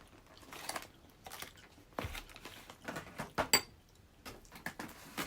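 Quiet handling and eating noises: scattered soft clicks and rustles, a dull knock about two seconds in and a sharp clink about three and a half seconds in, like dishes and utensils being moved.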